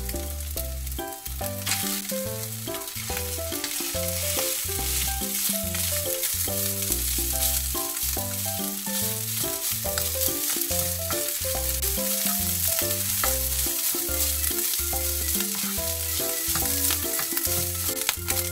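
Oil sizzling under diced Spam and green onion in a nonstick frying pan, with a spatula stirring cold rice through it later on. Background music with a bass line plays underneath.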